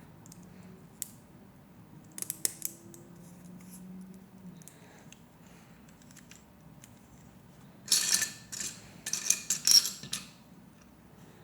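Loose plastic Lego Technic pieces being handled: a few sharp clicks about two seconds in, then a louder stretch of rattling and clattering for about two seconds near the end, as pieces are rummaged through.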